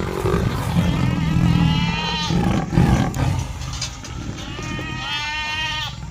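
Animal stampede sound effect: a low rumble of running hooves with animal cries over it, two long wavering calls, one about two seconds in and one near the end, as the rumble fades.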